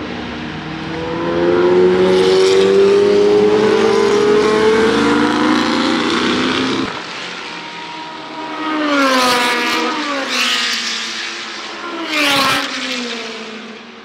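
Historic Formula Junior racing cars passing at speed. One engine climbs steadily in pitch for several seconds, then about three more cars go by in quick succession, each engine note dropping as it passes.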